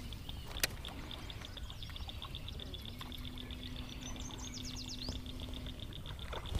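Quiet outdoor ambience: a bird gives a few quick falling chirps about four seconds in, over a fast, even, high ticking and a faint low hum.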